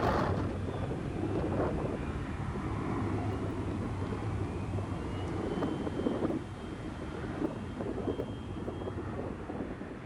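Jet airliner engine noise: a steady rumble with a faint high whine, gradually fading away.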